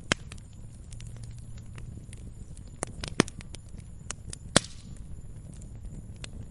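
Wood fire crackling in a fireplace: irregular sharp pops and snaps over a low steady rumble, with a few louder pops, the loudest about four and a half seconds in.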